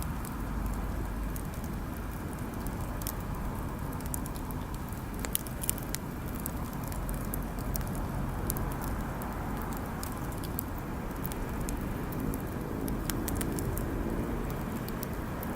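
Wood bonfire burning, with scattered sharp crackles and pops from the burning wood over a steady low rumble.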